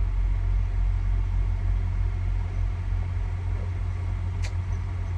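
Semi truck's diesel engine idling, a steady low rumble heard from inside the cab, with one short sharp tick about four and a half seconds in.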